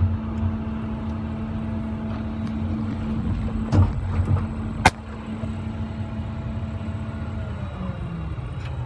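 Truck engine running, with a low rumble and a steady hum that drops in pitch near the end as the engine slows. A sharp click about five seconds in.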